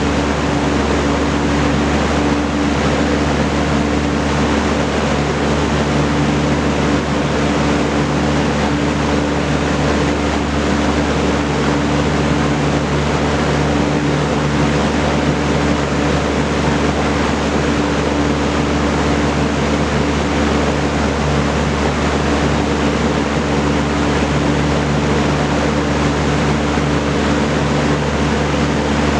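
Vintage Kenmore Roll-A-Matic 20-inch reversible box fan running steadily: its four-blade propeller gives an even rush of air over a steady low motor hum.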